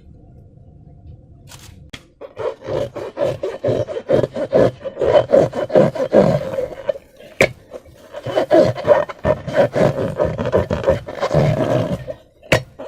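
Slime being squeezed and kneaded by hand against balloon rubber: after about two seconds of quiet, a dense run of sticky, crackling squelches and rubbery squeaks, with short breaks in the middle and near the end.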